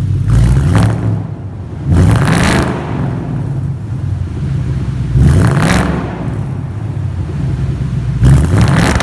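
Ford Mustang GT's 5.0 V8 running through a freshly installed MBRP Race Series cat-back exhaust, idling and revved in four short blips a couple of seconds apart.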